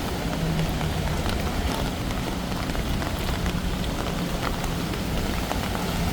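Light rain falling, many small drops ticking and pattering on hard surfaces over a steady wash of rain noise, with a low hum that comes and goes underneath.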